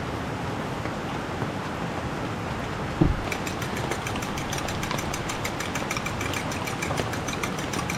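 Heavy rain falling as a steady hiss, with a single thump about three seconds in, followed by quick crackling pops, several a second.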